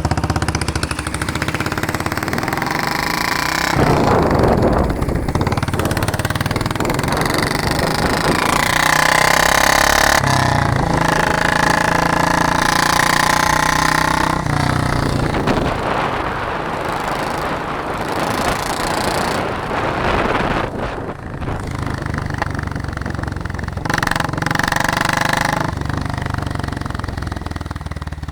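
An engine running with a rapid rattle, its pitch and loudness shifting several times.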